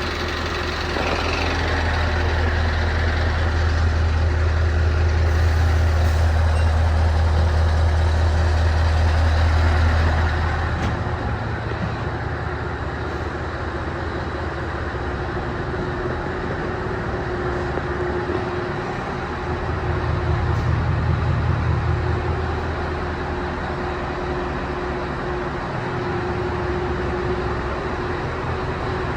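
Scania R 500's V8 diesel engine idling, a deep steady rumble that is heavier for the first ten seconds or so and swells again briefly past the middle. A steady hum runs underneath.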